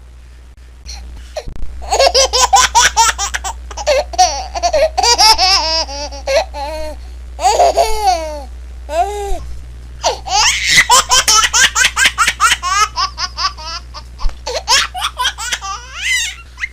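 A baby laughing in quick repeated bursts of high-pitched giggles, pausing briefly near the middle before laughing again, over a steady low hum.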